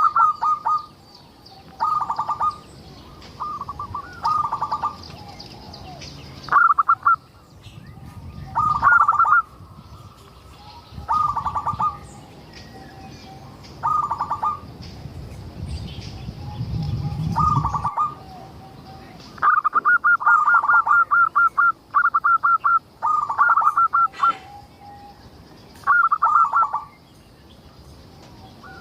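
Zebra dove (perkutut) cooing: short rolling phrases of rapid staccato notes, repeated about a dozen times with gaps between them and coming thick and fast in the second half. Fainter high chirping sounds behind them.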